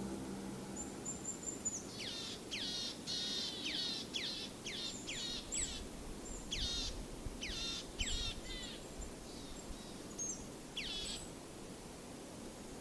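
Songbird calling in a series of quick high chirps that each slide steeply down in pitch, several a second in clusters, over faint outdoor background noise; a thin high whistle comes just before the series starts.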